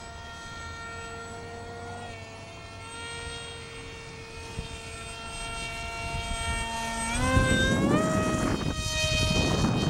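Electric motor and propeller of a small foam RC MiG-29 model plane whining steadily, then rising in pitch in steps about seven seconds in as the throttle is opened. Wind buffets the microphone.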